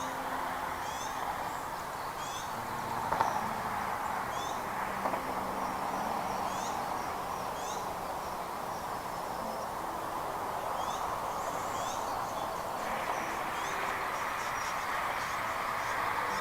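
A bird giving short, high, down-slurred chirps, repeated about once a second, over a steady background rush.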